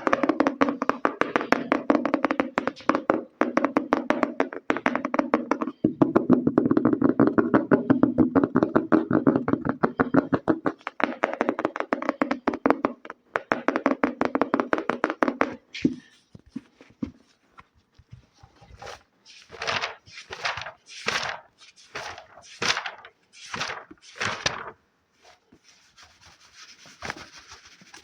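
Very fast fingertip tapping on a hard object, many taps a second, for roughly the first half; then a run of separate short rubbing or brushing strokes, one after another.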